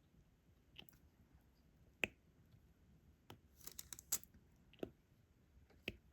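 Diamond-painting stylus picking up and pressing small resin drills onto the canvas: a few faint, sharp plastic clicks and taps spaced irregularly, with a quick rattling cluster near the middle.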